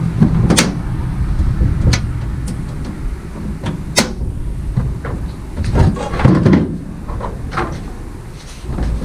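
Parts of a portable diesel heater's case being handled and fitted back together: a run of sharp clicks and knocks, spaced a second or two apart, over low rubbing and handling noise.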